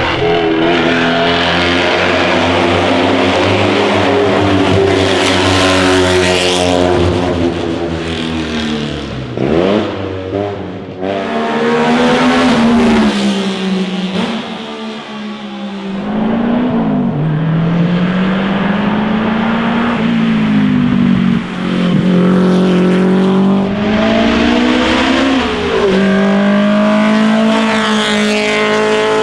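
Classic sports and racing car engines at full throttle, the pitch climbing with revs and falling back at each gear change or as a car passes, several times over.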